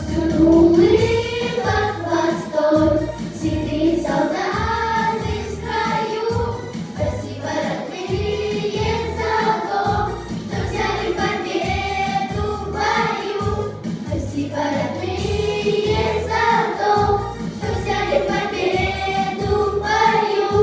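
Children's vocal ensemble singing a song together over a backing track with a steady beat.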